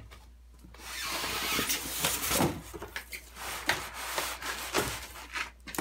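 Styrofoam packing rubbing, squeaking and scraping, with knocks, as a heavy part of the stand is worked out of its box. It starts about a second in and stops just before the end.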